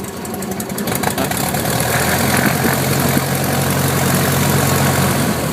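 1967 Cessna 150's Continental O-200 four-cylinder engine and propeller running at low taxi power, growing a little louder over the first two seconds and then holding steady.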